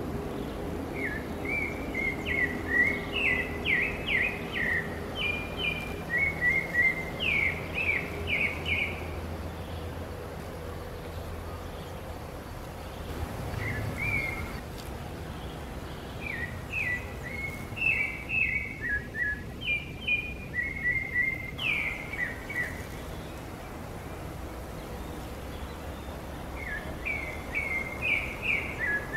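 A songbird singing rapid phrases of short, sharp, chirping notes. There are three bursts of song lasting several seconds each and one brief one, over a steady low background hum.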